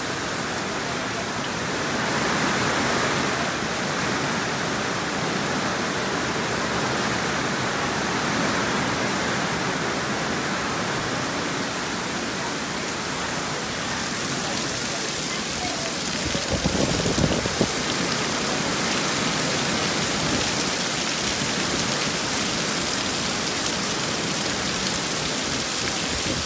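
Very heavy rain from a cyclone's outer rain band pouring steadily onto paving and plants. The hiss grows brighter about halfway through, with louder, closer splashing about two-thirds of the way in.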